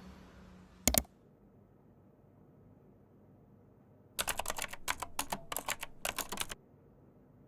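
A single sharp click about a second in, then a run of rapid clicks lasting about two and a half seconds.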